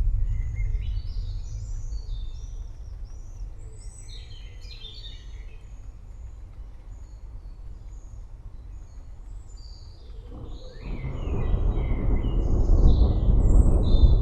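Forest birds chirping over a low rumble of distant thunder that dies away over the first few seconds; about eleven seconds in, another long roll of thunder swells up under the birdsong.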